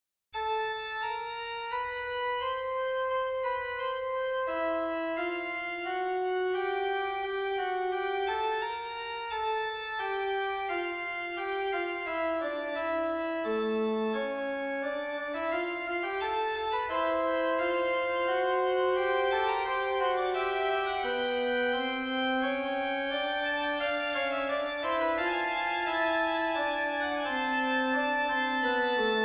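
Organ music: a classical-style fugue played on organ, several voices moving against each other in steady notes. It starts just after a brief silence.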